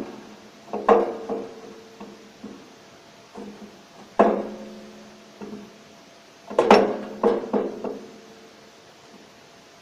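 Metal clanks and knocks of a wood-burning stove's removable door being worked back onto its thick hinge pins: several separate clusters of sharp, ringing strikes, the busiest about two-thirds of the way through.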